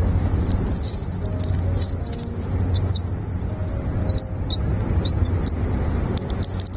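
Small bird chirping in four short high phrases about a second apart, then a few single high notes, over a steady low rumble.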